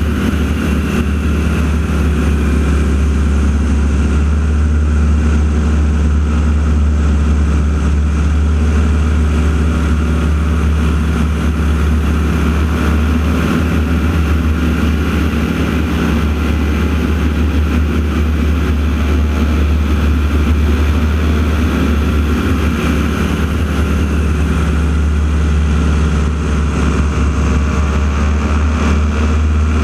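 North American T-6 Texan radial-engine propeller planes flying an aerobatic routine, a loud steady drone with a heavy low rumble.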